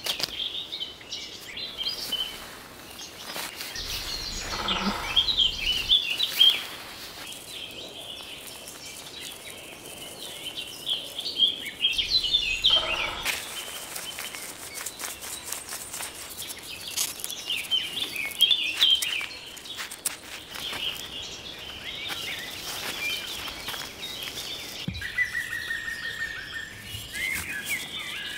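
Several birds chirping and singing throughout, with two longer, louder calls about four and twelve seconds in and a brief trill near the end, over scattered soft crackles.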